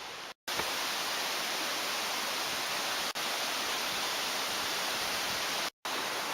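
Mountain stream water rushing steadily over rocks, a constant hiss broken twice by brief silent gaps, about half a second in and near the end.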